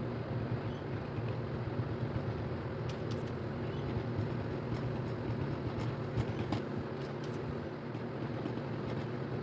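Steady low mechanical hum with a few faint clicks in the middle.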